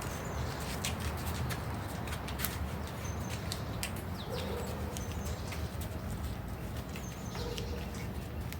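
Short high bird chirps repeating every few seconds, over a steady low rumble and scattered sharp clicks.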